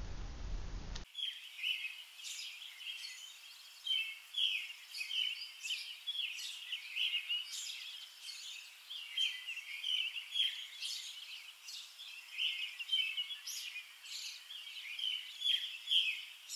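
Small birds chirping and calling outdoors: many short, overlapping high chirps, beginning about a second in.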